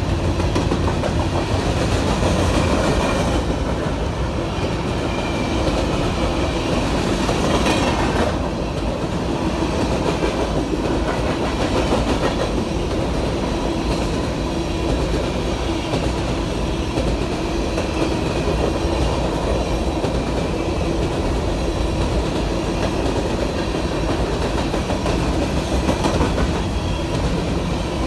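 A train rolling steadily past, its wheels clattering over the rails without a break.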